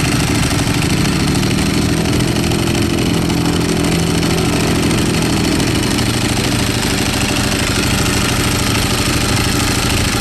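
Ducati 848 race bike's L-twin engine running at a steady idle.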